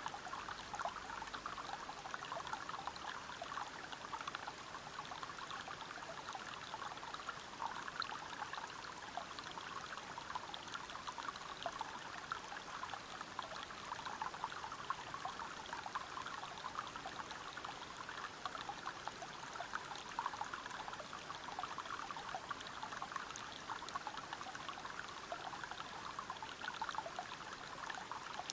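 Water flowing and splashing over rocks in a forest river, a steady stream of small splashes and trickles.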